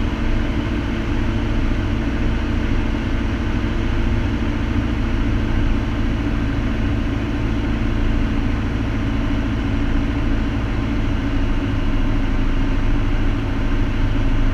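Piper Cherokee's piston engine and propeller droning steadily, heard inside the small plane's cabin.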